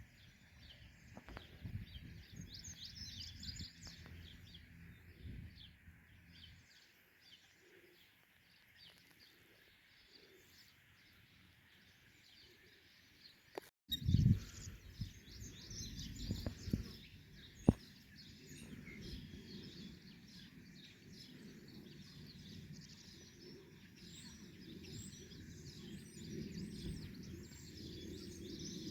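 Small birds chirping: many short, high chirps throughout, over a low rumble that fades and returns. There is a brief dropout just under halfway and a single sharp click soon after.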